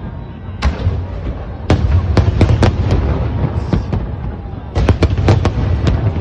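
Fireworks display: sharp shell bursts come singly and then in quick clusters of several bangs, over a continuous low booming rumble of shells going off and echoing.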